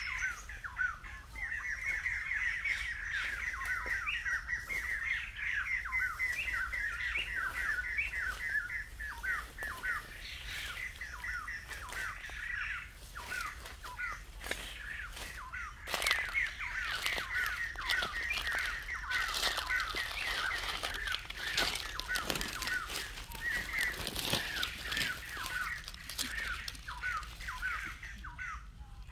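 Birds chirping nonstop in a dense run of quick, falling chirps. From about twelve seconds in, crackling and rustling in dry brush joins them.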